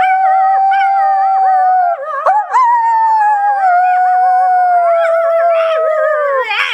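A person howling close by in imitation of a coyote to get a reaction from it. It is one long held howl that breaks briefly about two seconds in, picks up again, and slides down in pitch before stopping near the end.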